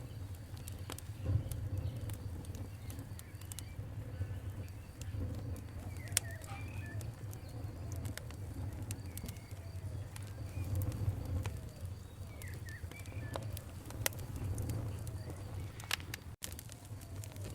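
Campfire crackling, with irregular sharp pops and snaps over a steady low rumble of burning. Small birds chirp faintly now and then in the background.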